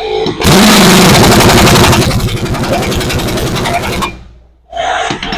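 Earthquake 1-inch drive long-handle impact wrench hammering in a fast, even rattle for about three and a half seconds. It stops, then fires a short burst near the end. The wrench is running on its power setting 2, not full power.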